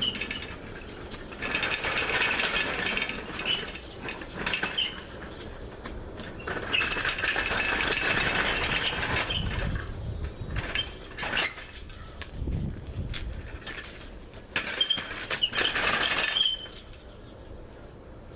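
Shop engine hoist being dragged and rolled out of the way, its metal frame rattling and clinking in three long bursts, with a low thud about twelve seconds in.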